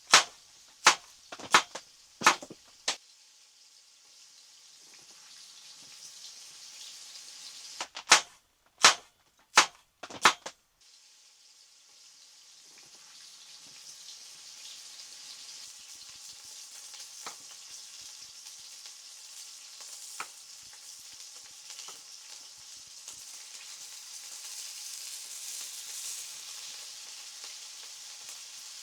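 A run of sharp clicks about two-thirds of a second apart, then a second run a few seconds later. After that comes a steady sizzling, like food frying in a pan, that grows gradually louder with the odd crackle.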